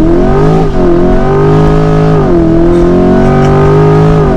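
2022 Chevrolet Corvette Stingray Z51's mid-mounted 6.2-litre naturally aspirated V8 at full throttle in a launch-control start. The engine note climbs, then drops sharply at each of three quick dual-clutch upshifts.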